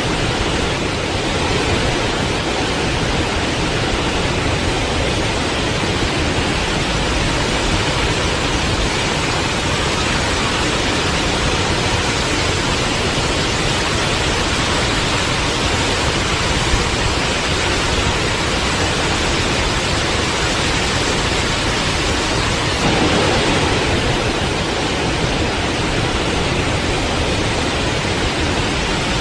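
Forest waterfall: a steady, even rush of falling water, with a slight jump in level about three-quarters of the way through.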